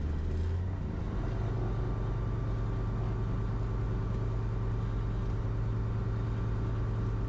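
Aero AT3's Rotax 912 engine running at low power, heard from inside the cockpit as a steady hum; its note steps up slightly about a second in.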